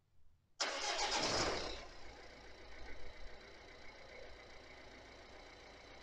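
Ford C-Max diesel engine starting about half a second in: a loud burst as it cranks and catches, falling within about a second to a steady idle. It is started after the engine bay was washed, to check that it still runs without trouble.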